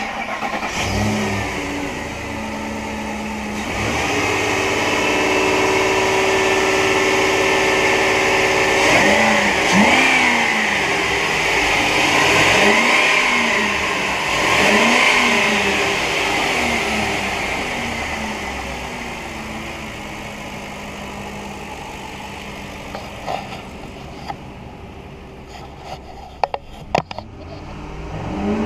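2008 Ford F-150's 5.4-litre V8 running: a steady idle, then revved in about five quick rises and falls through the middle, then settling back to a steady idle. A few sharp clicks come near the end.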